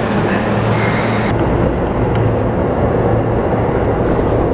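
Electric commuter train running, heard from inside: a steady rumble with a low hum. About a second and a half in the high hiss drops away.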